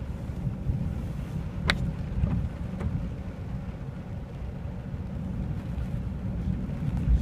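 Low steady rumble inside a car, with two faint clicks about two and three seconds in.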